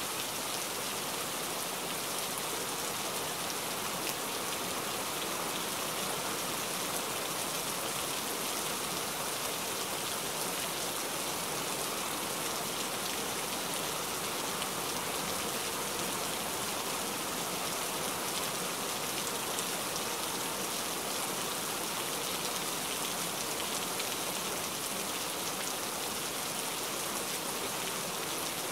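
Steady rain: an even hiss that never pauses or swells.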